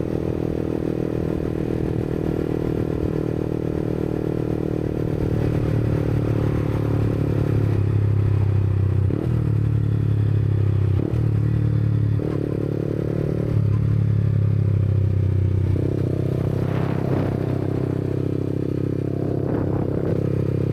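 Yamaha MT-125's single-cylinder engine running through a Black Widow aftermarket exhaust while riding. It gets louder about eight seconds in, with brief breaks in the note near nine and eleven seconds and changes in pitch after that.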